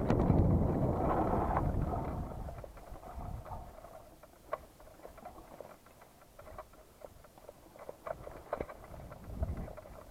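Wind buffeting the microphone, dying away after about two seconds, then scattered light clicks and brief squeaks.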